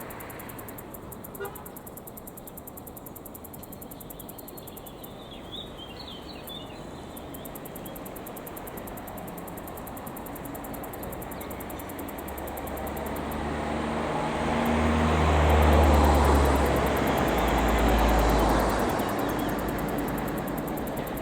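ETR 500 Frecciarossa high-speed electric train passing at speed. It starts as a rushing noise that builds over several seconds, swells to a loud peak with a low hum about two-thirds of the way in, then fades.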